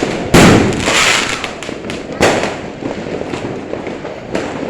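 Fireworks going off: a loud bang about a third of a second in, trailing into crackling, a second bang a little after two seconds, and scattered smaller pops.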